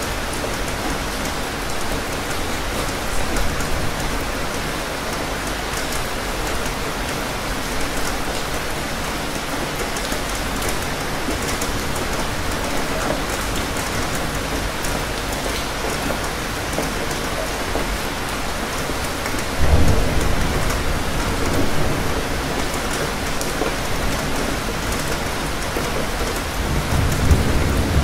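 Steady, heavy rain falling and pattering on the ground, with low rumbles of thunder twice, about two thirds of the way in and again near the end.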